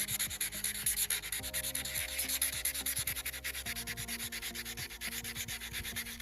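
Wet sanding a BMW emblem by hand with 400-grit sandpaper: quick, even back-and-forth rubbing strokes, several a second, taking the cracked, weathered finish down.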